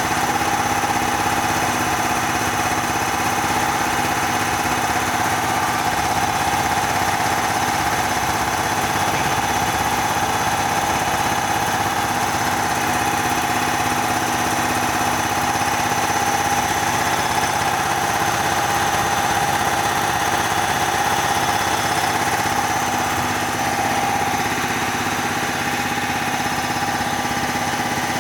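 Bauer 330-bar high-pressure air compressor running steadily: an even machine drone with a steady whine over it that does not change.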